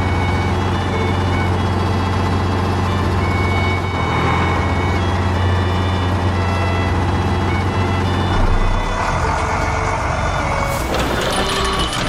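A heavy vehicle's engine runs with a steady low hum while a reversing alarm sounds in short repeated beeps.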